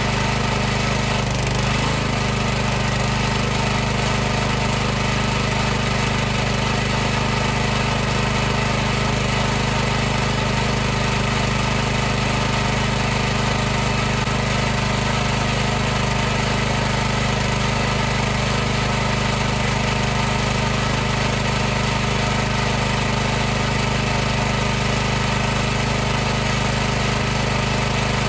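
High-pressure washer running continuously: a steady, unchanging motor-and-pump drone with a constant hum under a broad hiss.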